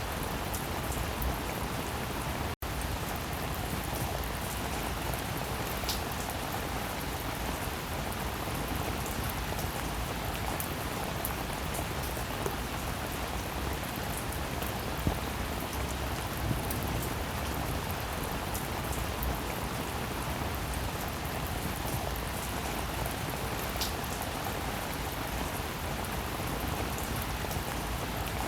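Steady rainfall, an even hiss with scattered sharp drop ticks. It cuts out completely for a split second about two and a half seconds in, then resumes unchanged.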